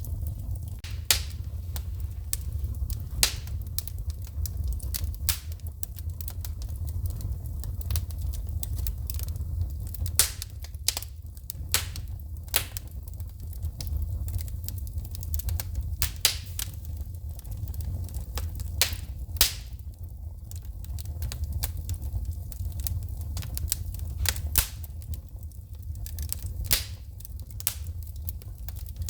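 Wood fire in a fireplace crackling, with many sharp, irregular pops and snaps as sparks shoot from the burning wood, over a steady low rumble of the flames.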